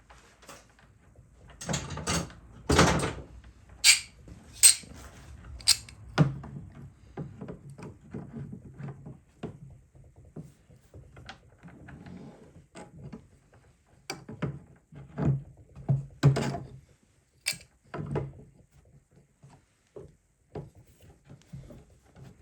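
Irregular knocks, thuds and clatter of hand work on parts inside a van, with a cluster of loud sharp knocks a few seconds in and another around two-thirds of the way through.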